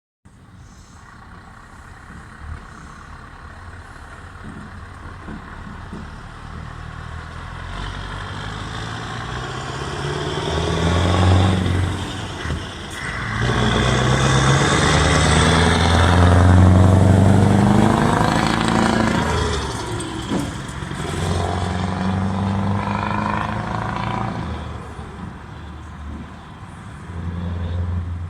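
Scania Torpedo V8 diesel truck engine running under load, its pitch climbing and dropping back several times as it revs up and changes gear. It grows louder to a peak around the middle, then eases off.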